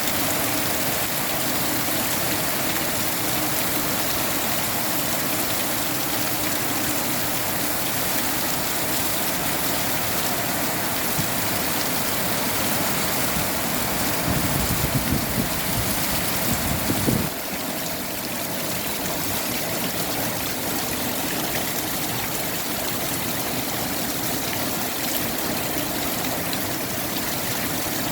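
Steady rain. From about halfway through, wind buffets the microphone in low rumbling gusts for a few seconds, cutting off suddenly.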